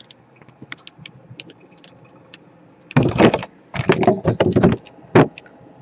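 Handling noise at a repair bench: a few light clicks, then two short stretches of louder scraping and clattering and a single sharp click near the end, as tools and the laptop motherboard are worked on to remove the power jack.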